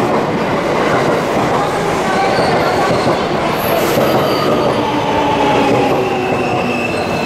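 Limited-express electric train rolling slowly past along the platform as it pulls in: a steady, loud run of wheel-on-rail noise with a few faint thin squeals over it.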